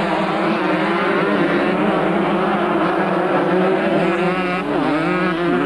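Several motocross motorcycle engines running together, their pitch rising and falling as the riders rev up and back off, with a sharper swing in revs near the end.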